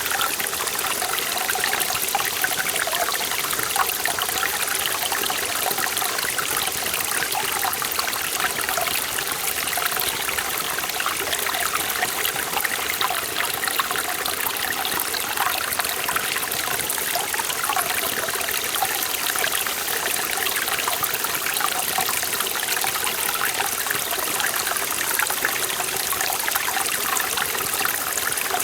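A forest valley stream flowing steadily over rocks, a continuous rush of water with bubbling and trickling.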